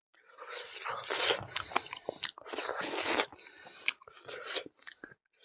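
A person chewing and biting food close to the microphone, with wet, crunchy mouth sounds in irregular bursts.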